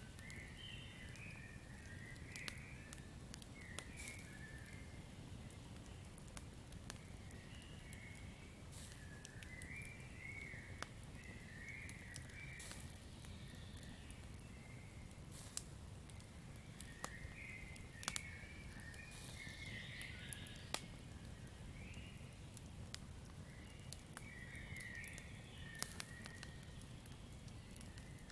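Campfire crackling with scattered sharp pops over a low steady rumble, while irregular chirping calls come and go.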